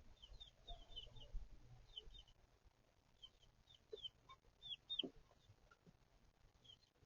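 Faint, scattered peeping of baby chicks, short high cheeps a few times a second, with a couple of low clucks from a hen about four and five seconds in.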